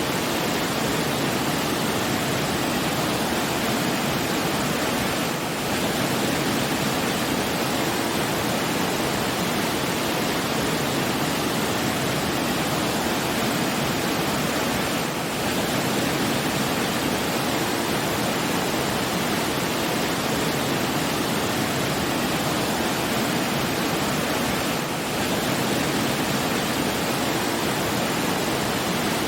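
Steady, even rushing noise of flowing water, with no tones or rhythm, and a brief dip in loudness about every ten seconds.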